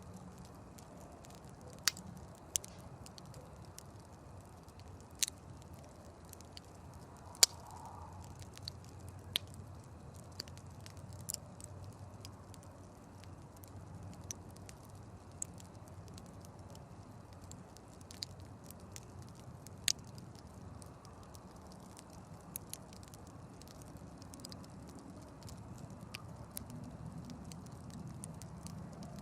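Campfire crackling, with about a dozen sharp pops scattered irregularly over a low, steady rumble.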